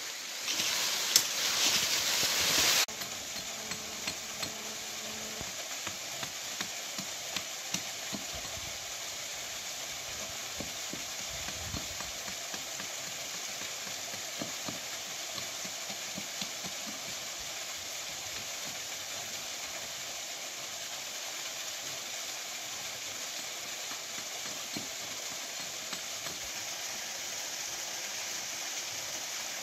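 Steady rush of water from a waterfall and stream, a hiss with scattered small clicks and ticks. It is louder and closer-sounding for the first three seconds or so, then settles to an even level.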